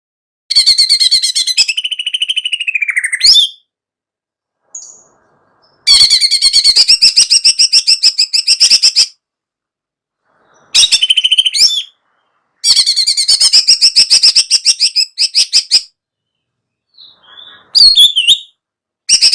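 Yellow-vented bulbul (trucukan) song: loud bursts of fast, bright, chattering notes lasting one to three seconds each, separated by pauses of complete silence.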